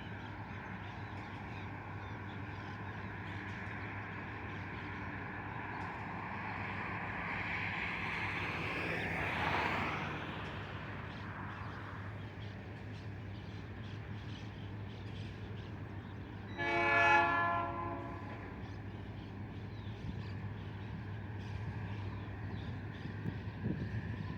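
Diesel drone of an EMD GT22 locomotive hauling a freight train, with a rushing noise that swells and fades about ten seconds in. About seventeen seconds in, the locomotive sounds one horn blast of about a second and a half.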